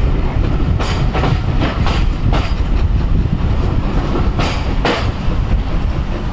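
Railway passenger coaches rolling past and away with a steady low rumble. Wheels clack over rail joints, several in quick succession in the first couple of seconds, then two more a little after four seconds.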